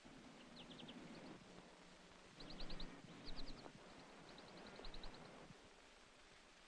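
Female American goldfinch on the nest calling to her mate: short groups of three to six quick, high chirping notes, repeated several times, over a faint steady hiss.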